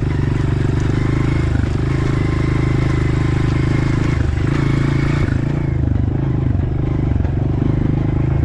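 Dirt bike engine running steadily on the trail, its pitch dipping briefly and picking back up three times as the throttle is eased and reopened.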